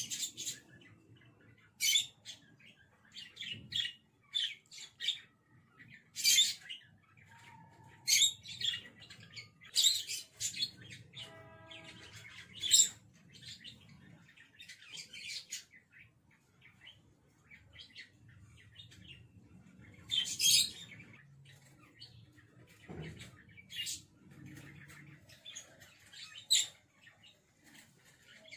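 Small birds chirping in short, sharp calls every second or two over a faint low hum.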